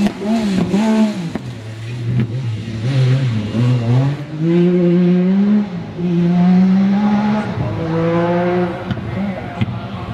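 Rally car engine driven hard on a gravel stage, the revs rising and falling through gear changes. The revs drop in the first second and a half, stay low for a couple of seconds, then climb about four seconds in and hold high before falling again near the end.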